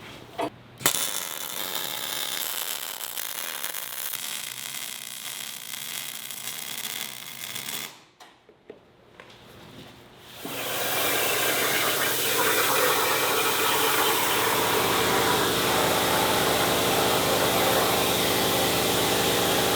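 Welding on a steel plate: a steady crackling hiss for about seven seconds, a short break, then a second, longer weld with a steady buzz under the hiss from about ten seconds in.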